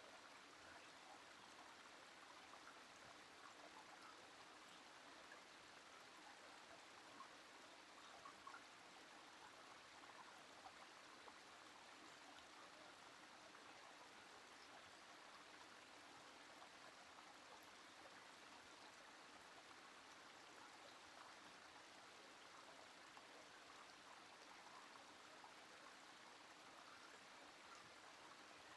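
A small woodland stream running, a faint steady trickle and burble of water.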